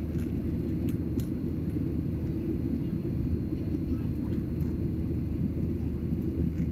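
Steady low rumble of an airliner's engines and rushing air heard inside the passenger cabin during the climb after takeoff, with a few faint ticks.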